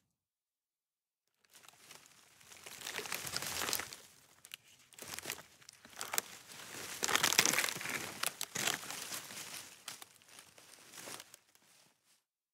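Dense, irregular crinkling and crackling, as of something being crumpled or crushed, starting about a second and a half in and dying away near the end.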